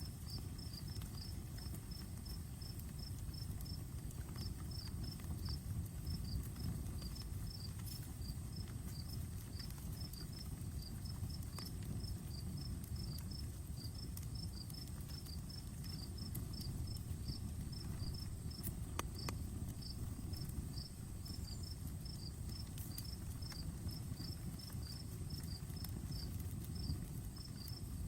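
Outdoor campfire burning with a steady low rush and occasional sharp crackles and pops. Over it, an insect chirps in quick, evenly spaced high pulses that come in runs with brief breaks.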